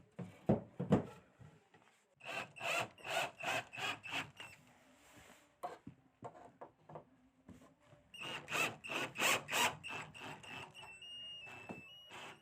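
Cordless drill-driver driving screws in short runs: rhythmic pulses about three a second with a high whine, and a few knocks near the start.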